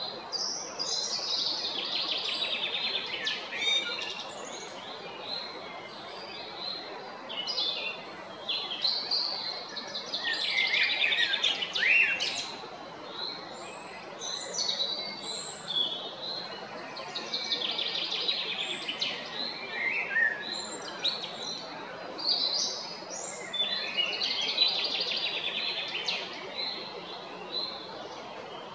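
Male common blackbird singing: about five song phrases a few seconds apart, each a dense run of quick, high twittering notes, over a steady background hiss.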